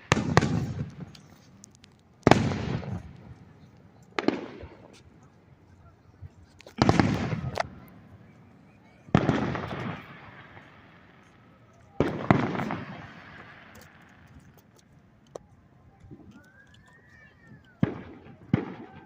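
Aerial fireworks shells bursting: six loud booms about two to three seconds apart, each trailing off in a long rumbling echo, then a lull and a few sharper, quicker cracks near the end.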